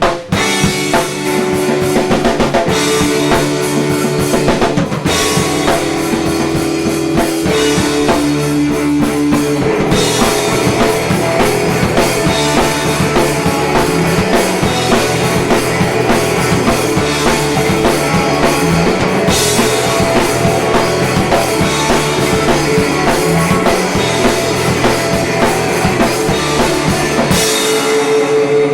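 A small indie-pop rock band playing live, with drum kit, bass drum and guitar in a passage without vocals.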